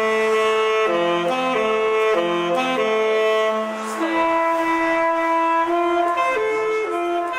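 Slow saxophone melody in background music, held notes changing every second or so over a lower sustained part that drops out about halfway through.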